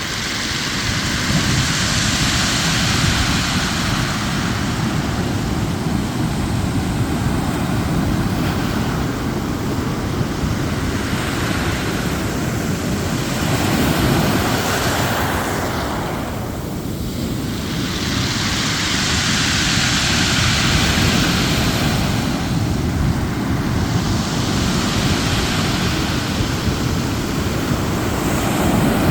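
Ocean surf washing onto a beach, the waves swelling and easing every few seconds, with wind rumbling on the microphone.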